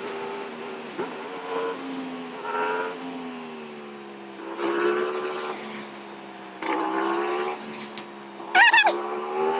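Aprilia RS 457 parallel-twin engine running on the move, its pitch rising and falling with the throttle. A brief, loud, high wavering squeal comes near the end.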